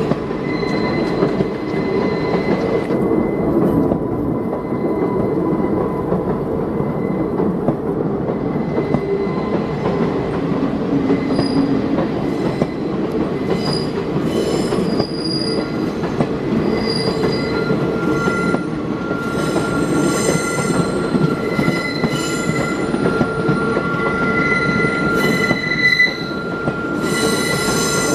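Passenger train running on a tight curve: a steady rumble of wheels on rail under high-pitched wheel squeal. The squeal grows fuller and more varied from about two-thirds of the way in.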